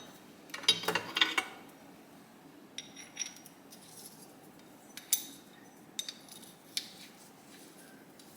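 Small steel gearbox parts clinking and tapping as a shift fork is lifted out of a motorcycle engine case: a quick run of clinks about half a second to a second and a half in, then single clinks every second or so.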